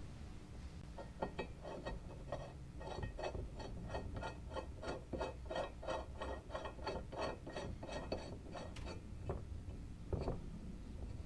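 A quick, uneven run of small mechanical clicks, about three or four a second, stopping about nine seconds in, followed by two single clicks.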